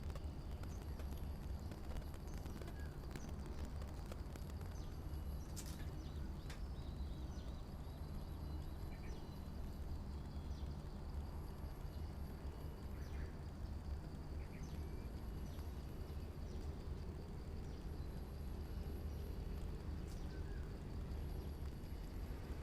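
Birds at a balcony feeder, with a few sharp taps and short faint chirps over a steady low rumble.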